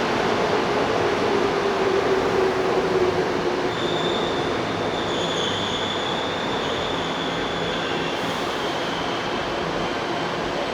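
Seoul Subway Line 2 train pulling into a station: steady rumble of the cars on the rails, with a high wheel squeal setting in about four seconds in and running on as the noise slowly eases.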